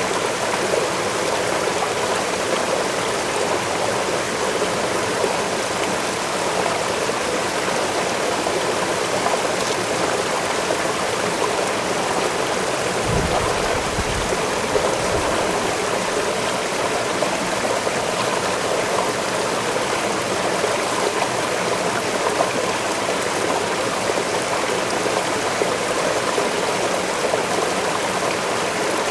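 Waterfall in a forest, a steady rush of falling water. A brief low rumble comes about halfway through.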